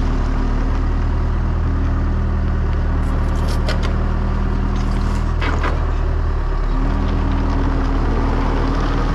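Motor vehicle engine running steadily while driving, its low note shifting about two-thirds of the way through. A few short clicks or rattles come in the middle.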